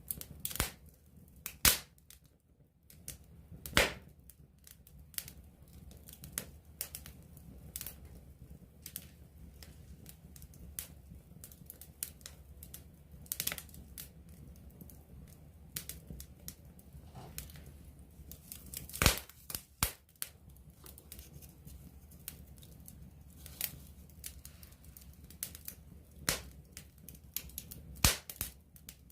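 Wood campfire crackling close up: irregular sharp pops and snaps, a handful of them much louder than the rest, over a faint low steady rumble.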